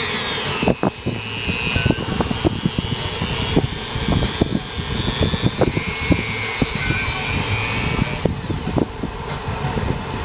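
Dremel rotary tool with a wire wheel whining at high speed while scrubbing carbon deposits, with a steady stream of irregular scraping clicks. Its pitch shifts as the load changes.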